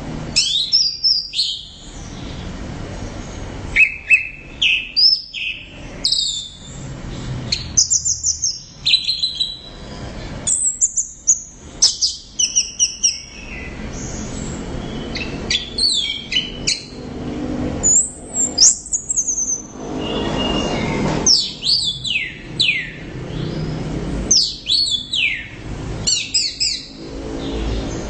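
Orange-headed thrush singing vigorously. Short bursts of high, rapid whistled notes, many falling in pitch, come every second or two over a steady background noise.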